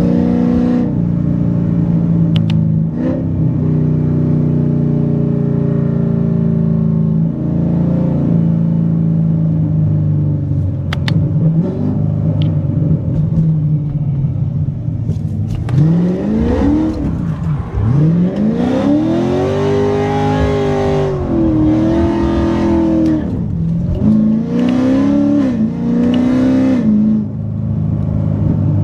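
Cammed C7 Corvette V8 with Kooks headers, cruising steadily for about fifteen seconds, then accelerating hard: the engine note climbs in pitch several times through repeated hard pulls and drops back between them.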